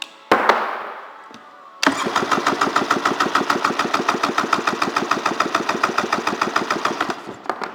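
1996 Polaris SLX 780 three-cylinder two-stroke engine cranked by its electric starter without firing, for a compression test on the PTO-side cylinder: about five seconds of even, rapid chugging, about eleven pulses a second. The cylinder reads 120 PSI, even with the other two, a healthy engine. About a third of a second in there is a sharp knock followed by a fading hiss.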